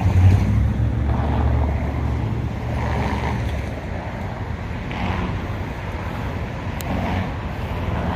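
Low engine rumble of a car rolling slowly past on the street, loudest in the first couple of seconds and then easing off, over steady street and wind noise.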